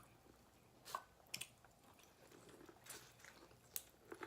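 Faint close-up chewing of seafood-boil food, with a few short sharp clicks scattered through it, about four in all.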